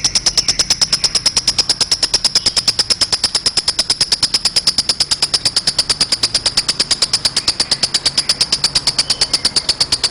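Lovebird 'ngekek': one long unbroken trill of rapid, high-pitched chirps, about eight a second, kept very even.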